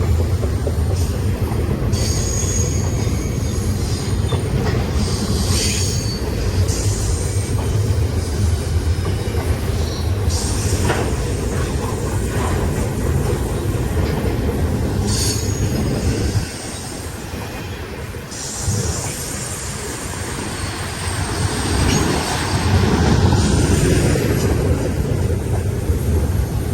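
BNSF intermodal freight train rolling past: a steady low rumble of wheels on rail with intermittent high-pitched wheel squeal. The rumble eases about sixteen seconds in and builds again a few seconds later.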